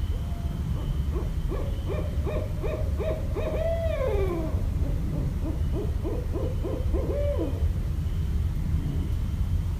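Barred owl giving a rapid run of hoots that ends in a long, downward-sliding hoot, followed by a second rapid run of hoots. A steady low rumble sits underneath.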